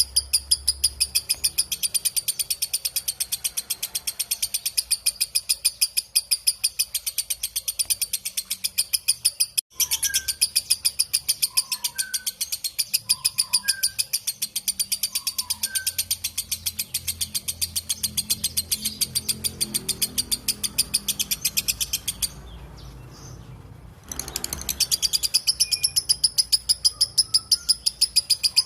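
Lovebird 'ngekek': a long, rapid chattering trill of sharp high notes repeated without pause, breaking off for a moment about two-thirds through and then starting again. Softer, lower chirps sound now and then beneath it.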